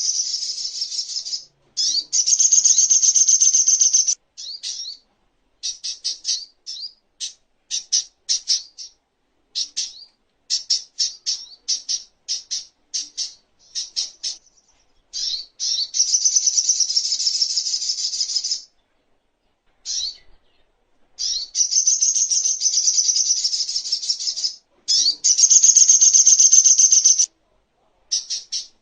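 A sogok ontong sunbird singing: long rapid high trills of two to three seconds alternate with runs of short, sharp chirps.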